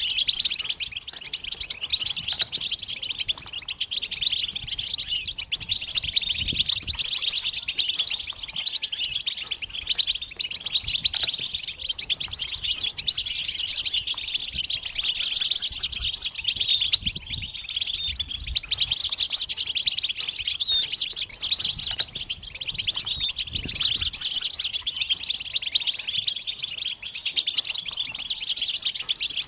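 Several European goldfinches chattering and singing together in a dense, unbroken stream of fast twittering, rapid trills and high tinkling notes. This is the kind of group chatter and song used as a lure to stir male goldfinches into singing.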